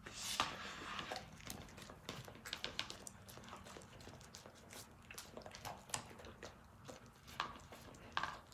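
A small dog chewing and crunching food quickly, a string of irregular short crunching clicks, the kind of gulping pace the owner is trying to slow down.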